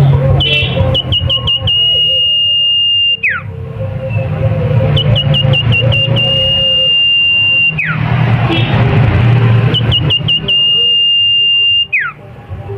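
Sirtu songbird singing the same phrase three times, about four seconds apart: a few quick high chips, then a long steady high whistle that drops away in a sharp downward slur. A steady low hum runs underneath.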